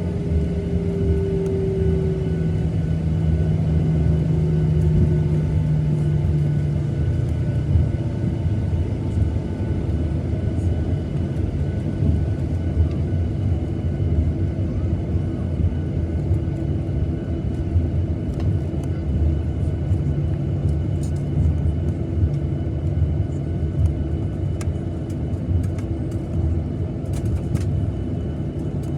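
Cabin noise inside a Boeing 737-900ER taxiing after landing: a steady low rumble from the CFM56 engines at idle and the rolling airframe. An engine tone falls slowly in pitch over the first several seconds, then the rumble holds steady.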